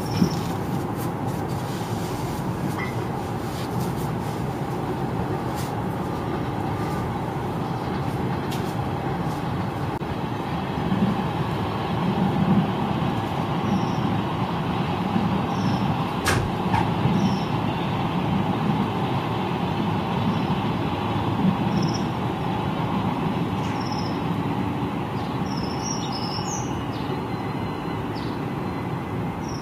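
Stainless-steel suburban electric train rolling past at low speed: a steady rumble that grows louder through the middle, with a regular beat of wheel clatter.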